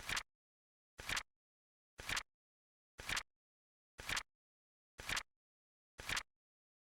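Flip clock countdown sound effect: a short flap-flipping click once a second, seven in all, each a quick double snap with silence between.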